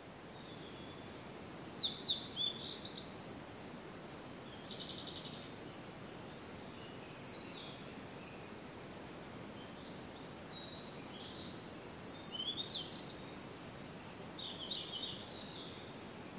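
Wild birds singing in short, high-pitched song phrases every few seconds, the loudest about two seconds in and again near twelve seconds, over a steady outdoor hiss.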